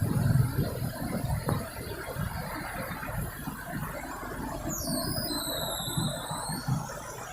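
Street noise with a vehicle engine passing and fading in the first moments. About five seconds in comes a high-pitched squeal lasting over a second.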